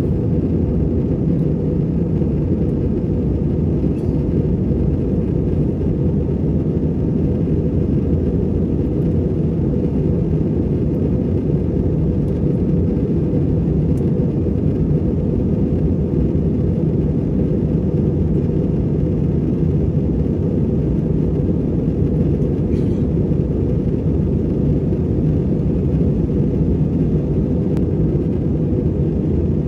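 Steady low rumble of an Airbus A321 cabin in flight, engine and airflow noise with a faint steady hum.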